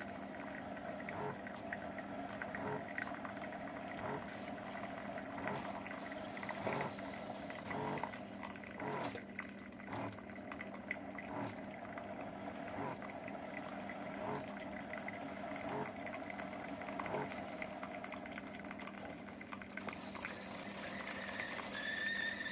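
SIFENE single-serve pod coffee maker brewing: a steady pump hum with coffee running into a glass mug, and a soft pulse about every second and a half. A thin high tone starts near the end.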